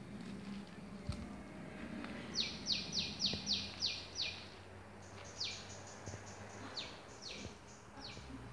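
A bird calling: a quick run of about eight sharp notes, each falling in pitch, at about four a second, then a few more spaced-out notes of the same kind.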